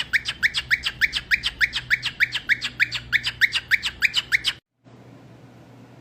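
A bird calling a fast, even run of short rising squawks, about three or four a second, that stops abruptly near the end, leaving only faint background noise.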